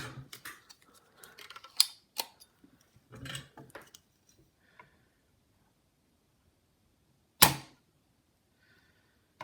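Several short clicks in the first four seconds, then one loud, sharp snap about seven and a half seconds in: a spring-loaded solder sucker firing its plunger to pull molten solder from a motherboard capacitor joint.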